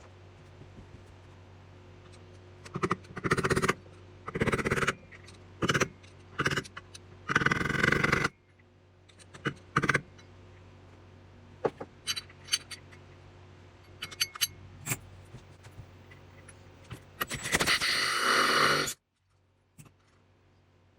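Metal parts and tools being handled: several short scrapes and clinks, then a longer, louder scrape a few seconds before the end.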